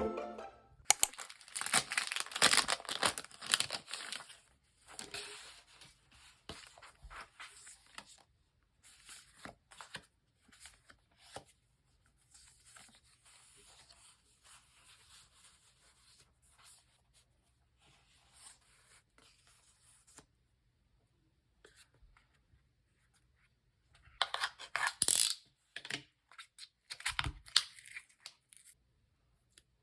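Paper being torn, with a long tear about a second in and another burst of tearing near the end, soft rustling and handling of paper between, and a low thump near the end.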